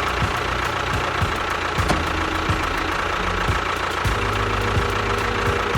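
An engine running steadily, with repeated knocks every half-second or so.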